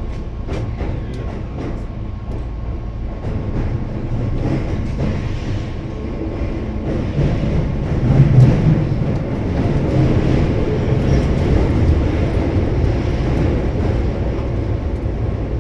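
Keihan electric train running underground, its wheels and motors rumbling and growing louder over the first half, with a few sharp clicks from the rails in the first seconds.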